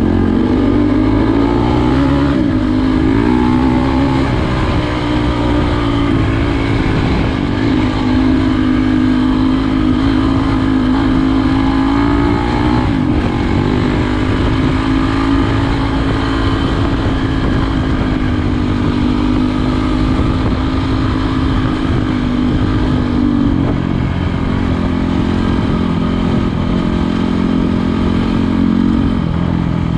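Trail motorcycle engine running while riding, its pitch rising and falling with the throttle and dropping about 23 seconds in and again near the end.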